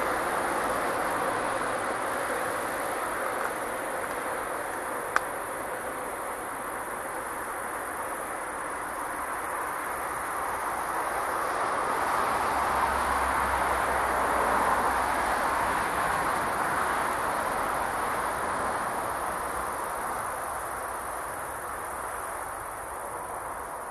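A freight train rolling away along the track, its steady wheel-on-rail noise slowly fading into the distance. A steady high insect buzz runs underneath, and there is a single sharp click about five seconds in.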